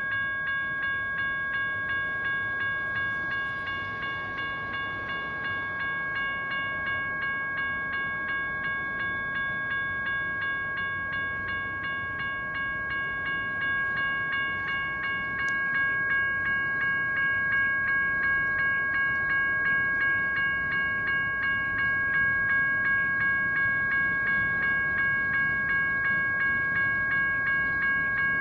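General Signals Type 1 electronic crossing bell ringing steadily with regular, evenly spaced strikes, over the low rumble of a passing train.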